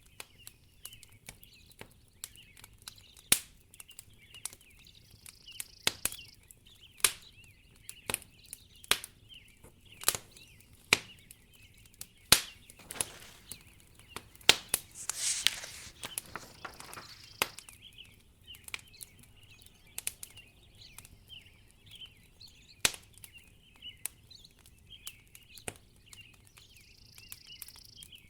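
Wood fire crackling in a fireplace: irregular sharp pops and snaps, a few much louder than the rest. A brief hissing rush about halfway through.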